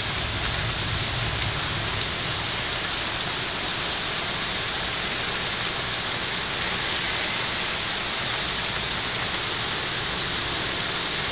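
Heavy rain pouring down steadily in a storm, a dense even hiss with a few sharper drop hits now and then.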